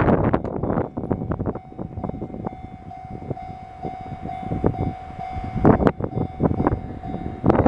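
A train running over the level crossing. Its wheels clatter over the rail joints in bunches, dense at the start and again near the end, with sparser clicks and a steady tone through the quieter middle.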